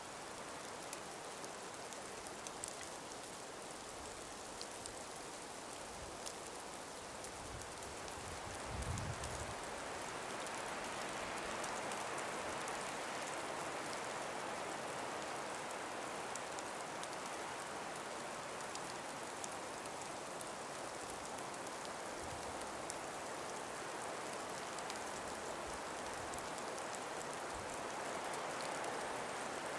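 Calm winter breeze moving through ice- and snow-laden forest trees: a steady hiss that swells about ten seconds in, with faint scattered ticks and a brief low buffeting near the swell.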